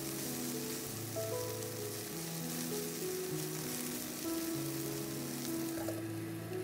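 Chicken thigh pieces sizzling in oil in a wok as they are turned over, under soft background music with held notes. Near the end the sizzle drops away as a glass lid goes on.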